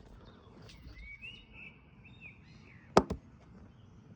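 Faint bird chirps over quiet outdoor background noise, with a sharp double click about three seconds in.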